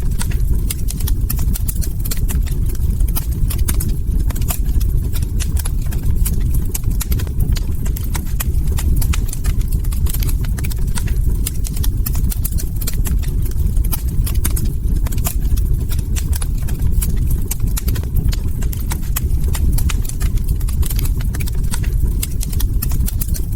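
Log fire crackling: frequent sharp snaps and pops over a steady low rumble of burning wood.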